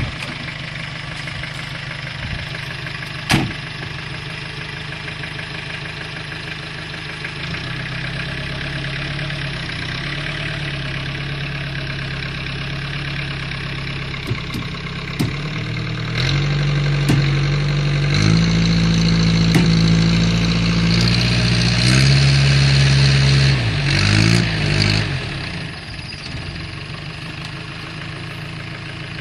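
Land Rover engine idling, then revving harder under load for about ten seconds while towing a pickup stuck in mud, its pitch stepping up, before dropping back to idle near the end. A single sharp knock a few seconds in.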